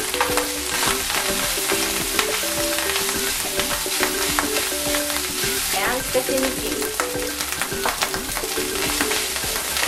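Fried rice sizzling in a hot nonstick frying pan while it is stirred and turned with a silicone spatula, with a steady hiss and frequent small scrapes and taps of the spatula on the pan. Soft background music plays underneath.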